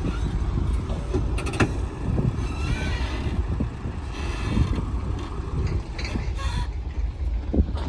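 Diesel engines of heavy earthmoving machinery running with a low rumble, with a few sharp metallic clanks and short squeals over it.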